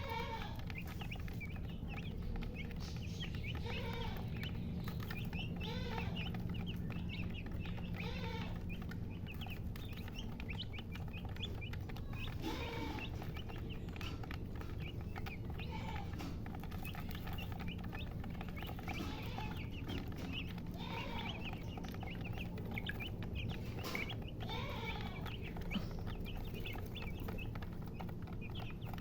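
Chicks peeping constantly in many quick high notes, while a hen gives a lower clucking call every couple of seconds, over a steady low hum.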